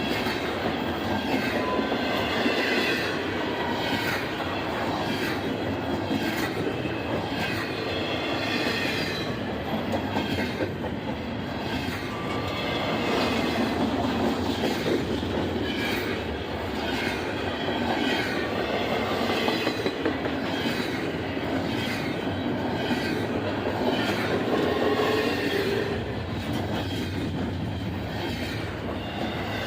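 A train rolling past close by: a steady rumble of steel wheels on the rails, with regular clicks as the wheels cross rail joints.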